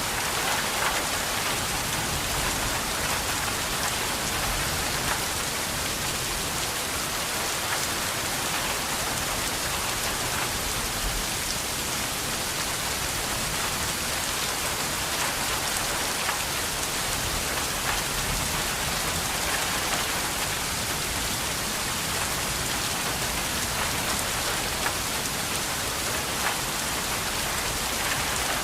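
Steady rain falling, with the fine patter of drops hitting a surface.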